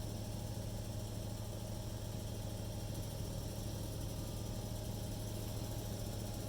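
Steady low machine hum with a light hiss.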